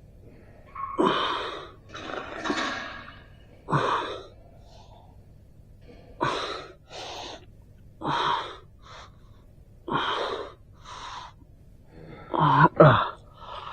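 A person breathing hard in loud, sharp gasps and exhalations, one about every two seconds, with a short voiced groan near the end.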